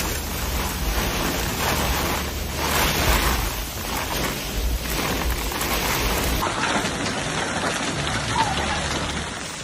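Heavy rain falling, a steady loud hiss with a low rumble underneath.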